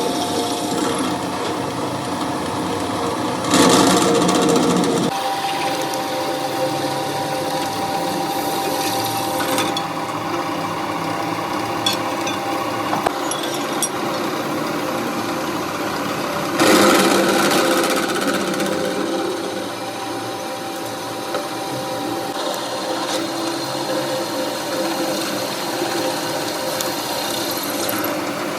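A workshop power tool or machine running steadily with a constant hum, getting louder for about a second and a half twice, a few seconds in and just past halfway.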